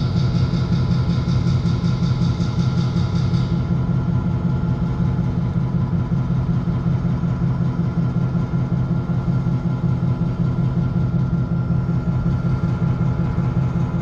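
An engine idling steadily with an even low hum. A faint, rapid high-pitched pulsing above it stops about three and a half seconds in.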